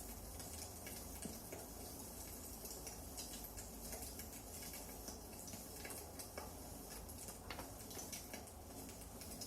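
Firewood burning in a fireplace, crackling softly with many small irregular pops and snaps.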